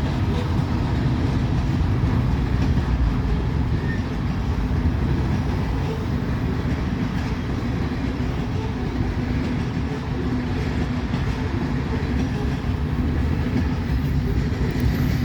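Loaded coal train rolling along the rails: a steady, continuous rumble of the coal cars.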